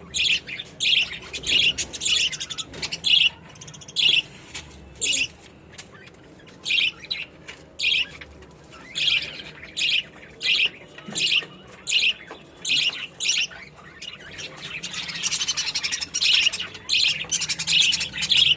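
Young budgerigars calling in short, harsh chirps, about one or two a second. Over the last few seconds the calls thicken into busier, overlapping chatter.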